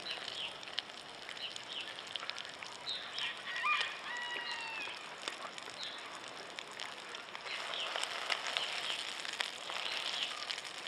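Sausage patties sizzling and crackling in oil in a frying pan heated by a parabolic solar dish, with a short honk about four seconds in. Toward the end a metal spatula works the patties in the pan.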